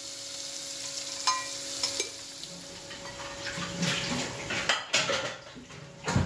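Chopped onion, ginger and dried chillies sizzling in oil in a metal kadai, with a long metal slotted ladle scraping and clicking against the pan as it stirs. A heavier knock comes just before the end.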